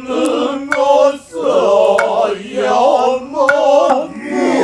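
Noh chanting (utai) in men's voices, slow drawn-out sung phrases with brief pauses between them, and a few sharp clicks over the singing.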